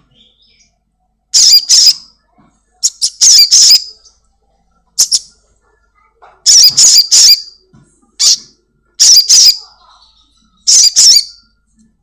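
Little spiderhunter (sogon) calling: sharp, high, squawking chirps in about seven short bursts, each a quick cluster of notes, spaced every second or two.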